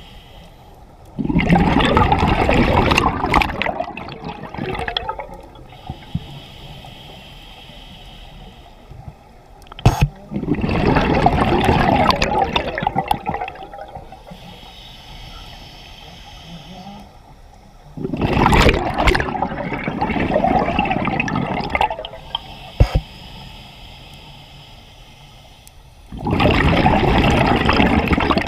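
Scuba diver breathing underwater through a regulator: four long rushes of exhaled bubbles, about eight seconds apart, with quieter stretches between them as the diver breathes in.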